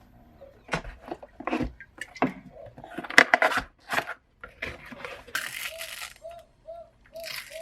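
Small objects being handled: irregular clicks and taps with bursts of rustling, like paper or plastic packaging being torn, loudest about halfway through.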